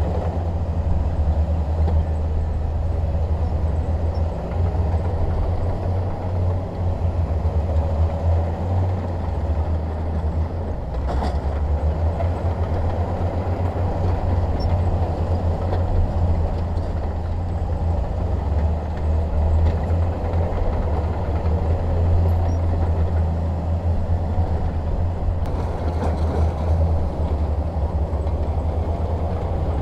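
Bulldozer's diesel engine running steadily with a deep, low drone, and one brief knock about eleven seconds in.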